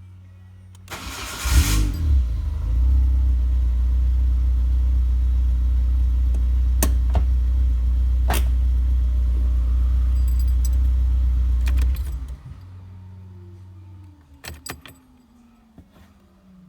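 Peugeot 106 S16 engine cranked and catching about a second in, then idling steadily for about ten seconds before being switched off. A few sharp clicks and a slowly falling whine follow the shutdown.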